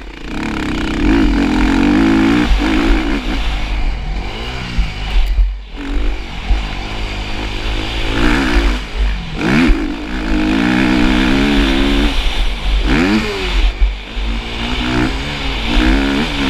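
Motocross bike engines revving hard and rising and falling in pitch through gear changes and throttle blips, with several sharp up-and-down sweeps, over a heavy low rumble.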